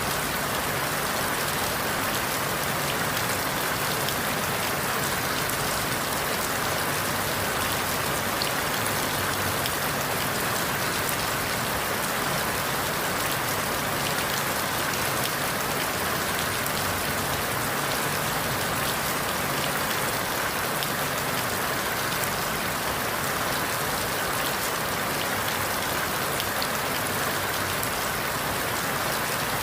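Steady rain falling through forest leaves, a dense even hiss flecked with individual drops.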